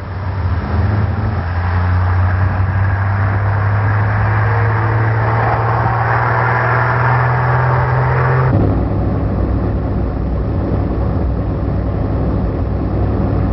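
Tractor-trailer truck engine running under way, its pitch climbing slowly as it pulls. About eight seconds in, the sound changes abruptly to a lower, rougher running note.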